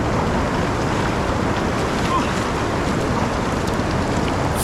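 Fast, storm-swollen river water rushing steadily, with wind on the microphone.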